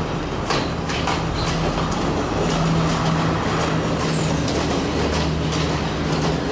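Diesel passenger train pulling into the station: a steady low engine drone, with the wheels clicking over the rail joints and a brief high squeal about four seconds in.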